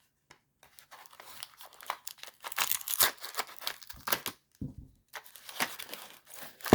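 Protective wrapping around coins crinkling and tearing as it is pulled open by hand, in irregular crackles, with a sharp click near the end.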